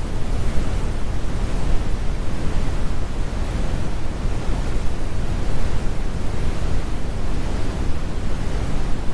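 Computer-generated brown noise: a steady, deep rumble of random noise, strongest in the bass and with the highs rolled off, unchanging throughout.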